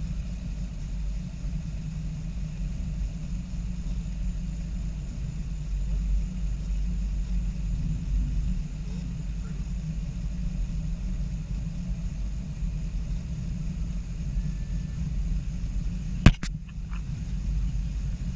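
Steady low vehicle rumble, with one sharp knock about sixteen seconds in.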